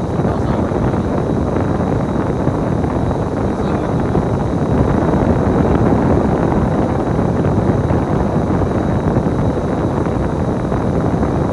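Steady rumble of a bus in motion, engine and road noise heard from on board, swelling slightly about halfway through.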